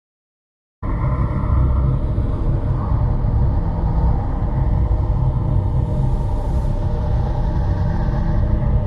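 A loud, steady low rumble with a constant hum, starting suddenly just under a second in after total silence.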